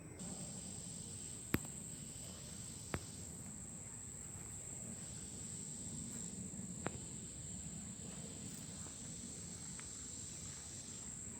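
Insects trilling steadily at a high pitch, with three sharp clicks about one and a half, three and seven seconds in.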